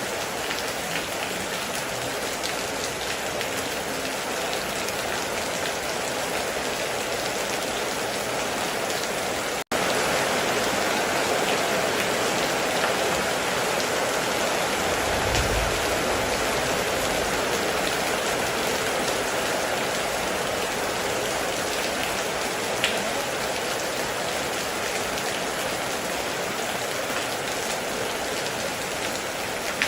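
Heavy rain falling steadily. It cuts out for a split second about ten seconds in and comes back slightly louder, and there is a short low rumble about halfway through.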